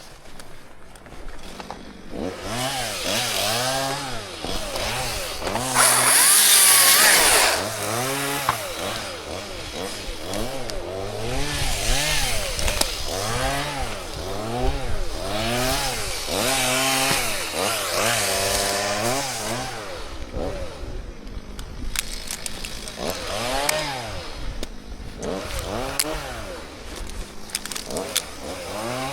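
Chainsaw revving up and down over and over, its pitch rising and falling about every second or so, with a louder stretch about six seconds in, while cutting birch.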